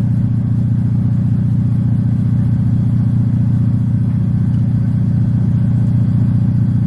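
Car engine running steadily at low speed, heard from inside the cabin as an even low rumble.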